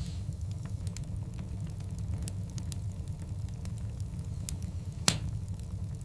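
Wood fire burning in a fireplace: a steady low rumble of the flames with scattered crackles and pops of the burning logs, one sharp, louder snap about five seconds in.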